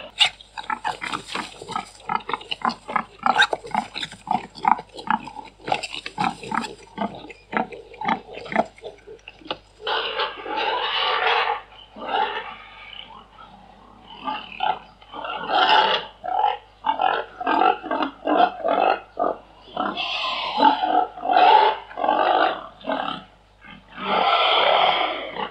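Domestic pigs grunting in quick short series, then giving several longer, drawn-out calls.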